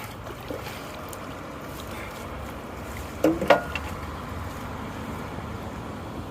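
Water running into a storm drain. A short clatter comes a little past halfway.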